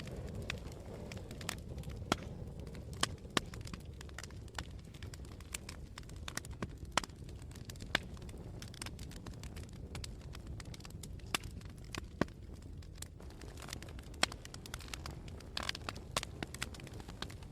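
Campfire burning, with frequent sharp crackles and pops at irregular intervals over a steady low rumble and hiss of the flames.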